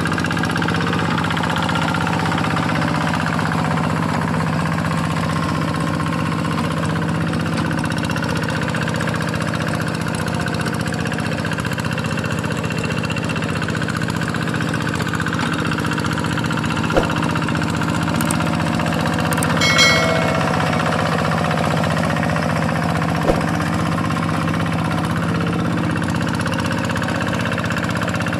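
Single-cylinder Kubota diesel engine of a Quick G1000 hand tractor running steadily while ploughing a flooded rice paddy. A couple of faint clicks and a brief higher-pitched sound are heard about two-thirds of the way through.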